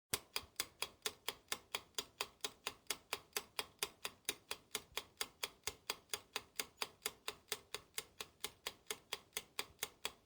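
Rapid, even clock-like ticking, about four ticks a second, starting suddenly just after the beginning.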